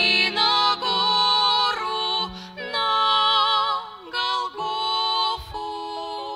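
Women's voices singing long held notes with vibrato over a steady low accompaniment, part of a Christian song; the sound eases off about four seconds in.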